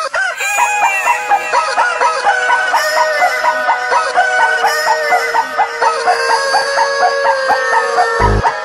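Music mashup built from chicken clucks and rooster crowing, edited into an even rhythmic pattern over a held note. Heavy bass beats come in near the end.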